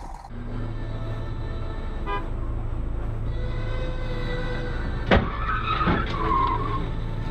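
Car driving with steady engine and road noise, then a sudden loud crash about five seconds in, followed by a second smaller bang and a brief high tone: a vehicle collision.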